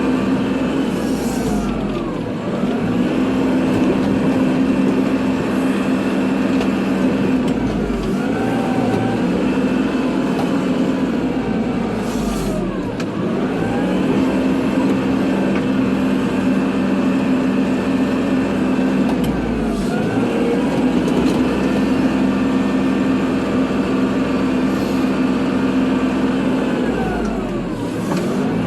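Kubota tractor's diesel engine running steadily under load while plowing snow. Every five to seven seconds its pitch briefly dips and climbs back.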